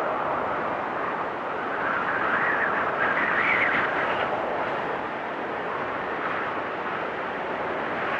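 Wind storm blowing hard and steadily, with a whistling note that swells and fades in gusts, loudest about three seconds in.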